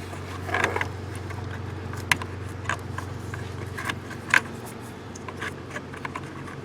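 Scattered sharp clicks and rustles of a remote start link cable and its plastic fittings being handled under a truck's dashboard, over a steady low hum.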